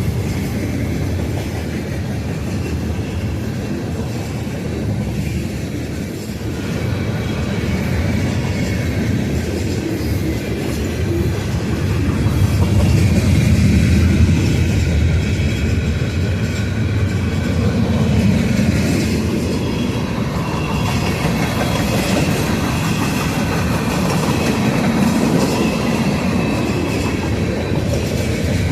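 Freight train cars rolling past close by: a steady rumble of steel wheels on rail with clicking over the rail joints.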